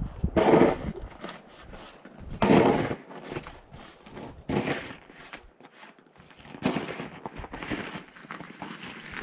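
Snow being shovelled: a crunching scoop of snow about every two seconds.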